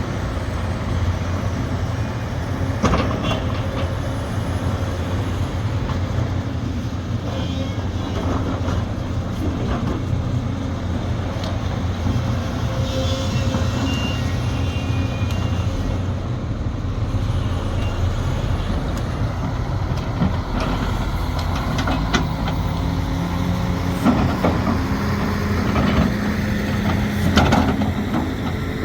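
Sumitomo SH370LHD-6 excavator's diesel engine running steadily, its pitch shifting and rising in the last several seconds. A few sharp knocks and clanks come through it, most of them near the end.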